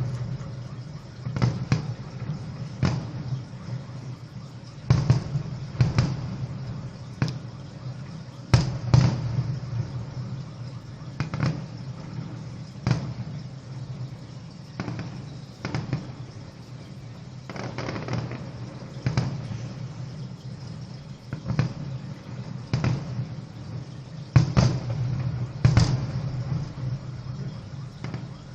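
Fireworks display: firework shells bursting one after another at irregular intervals, about one bang every second or two, some in quick pairs, over a steady low background rumble.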